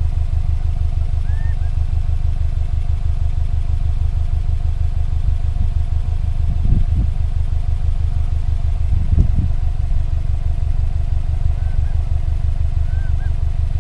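A vehicle engine idling, a steady low rumble with an even pulse, with two brief low bumps about midway. A few faint short bird chirps come about a second in and again near the end.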